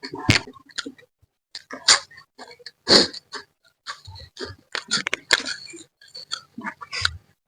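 Close-miked eating sounds: wet chewing, lip smacking and sucking, in irregular bursts of short smacks and clicks, from a person eating a spicy fish head. The loudest smacks come about 2 and 3 seconds in.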